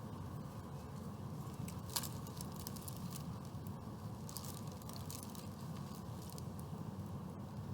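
Eating noises, with taco wrapper paper crinkling and scattered crackly clicks and one sharper click about two seconds in, over a steady low rumble of traffic from a busy street.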